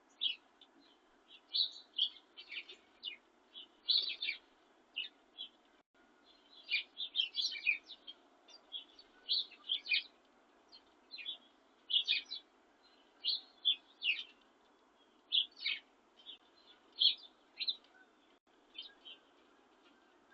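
Birds chirping: many short, high chirps in quick succession, some overlapping, over a faint steady hiss.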